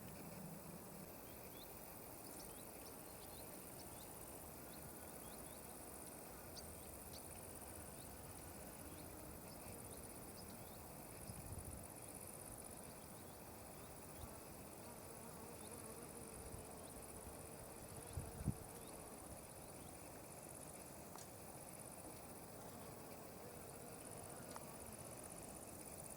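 Faint, steady, high-pitched chirring of insects in a meadow, with scattered short high chirps in the first half. Two brief low thumps come about halfway through and about two-thirds through, the second one the loudest.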